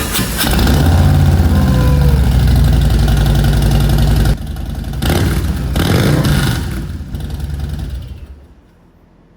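2023 Harley-Davidson Low Rider ST's Milwaukee-Eight 117 V-twin starting for the first time through a new Sawicki 2-into-1 exhaust, running loud and rough for about four seconds, revved again around six seconds in, then fading out near the end.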